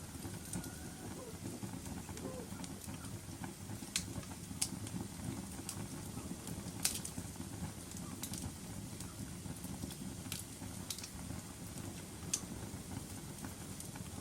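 Wood fire burning in a fireplace: a steady low rush of flame with sharp pops and crackles scattered through, the loudest about seven seconds in.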